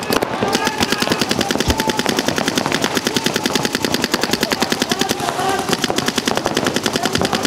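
Paintball markers firing in rapid, continuous streams, with many sharp shots a second overlapping.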